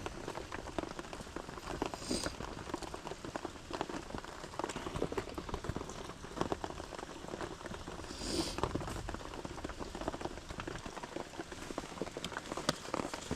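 Rain falling, a dense steady patter of drops, with a couple of brief louder hisses.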